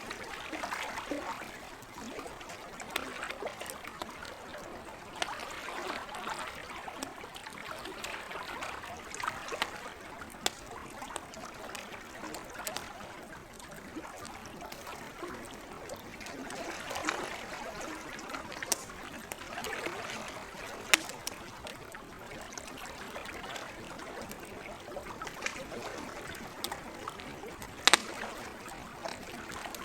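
Lake water trickling and lapping steadily, with scattered sharp pops and crackles from a campfire. A few louder snaps stand out, one about two-thirds of the way through and the loudest near the end.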